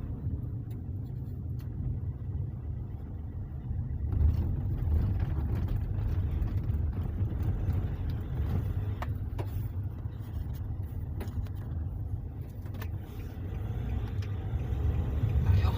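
Car driving steadily, a low rumble of engine, drivetrain and tyres, on a road test after its differential bearings, side gears and pinion gear were replaced to cure a hum at 80 km/h and above.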